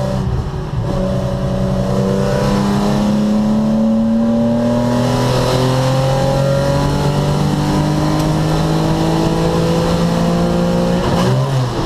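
Datsun S30 Z's inline-six engine heard from inside the cabin, pulling hard under acceleration out of a corner and down the straight, its note climbing slowly and steadily. The pitch falls abruptly near the end, as the revs drop.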